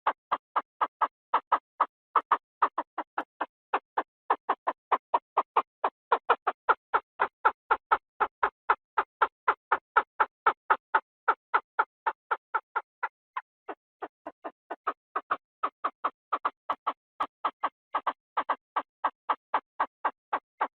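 Chinese francolin call played as a trapping decoy: a long, unbroken run of short clipped notes, about three or four a second, evenly spaced. The notes grow briefly fainter about 13 seconds in.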